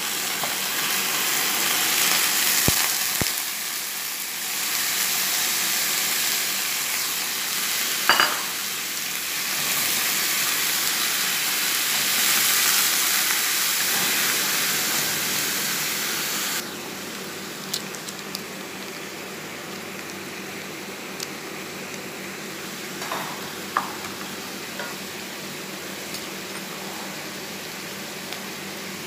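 Raw chicken pieces sizzling in hot oil with chopped garlic and onion in a frying pan, stirred with a wooden spatula. The sizzle drops abruptly much quieter a little past halfway, with a few sharp knocks.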